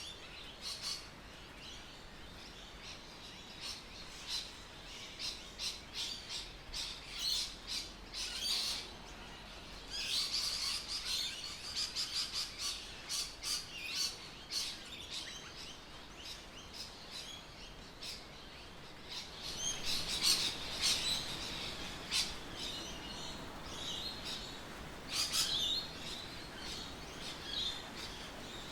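Birds chirping and calling: many short high calls overlapping, busiest about ten seconds in and again about twenty seconds in, over a faint steady background.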